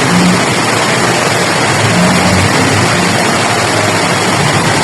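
Loud, steady rush of water in heavy rain and flooding, with a low hum underneath.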